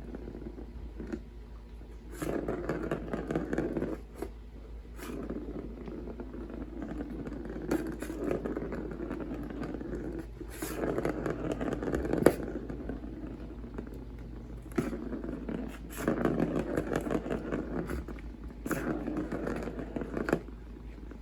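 Cat scraping at something in about six separate bouts of one to two seconds each, with a few sharp clicks in between.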